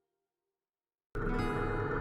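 Complete silence for about a second after the background music has faded out, then a loud, steady sound with a deep hum cuts in abruptly.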